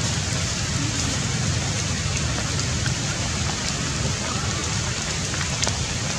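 Steady rain falling on the leaves of the forest canopy, with a few small ticks of drops standing out.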